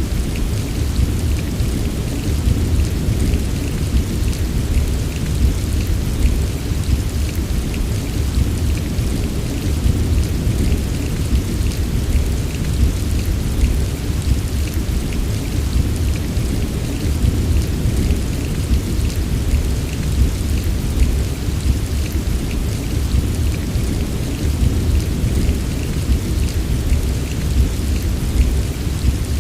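Heavy rain falling steadily: a dense patter of drops over a deep, continuous low rumble, with no single loud crack or burst.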